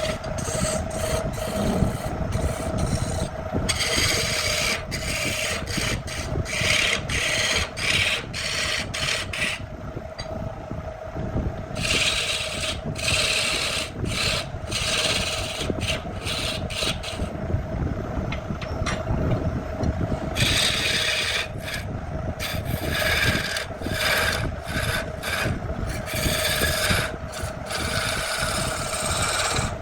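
Wood being filed or rasped by hand: rough scraping strokes in quick, irregular succession, growing harsher in several stretches, over a steady tone.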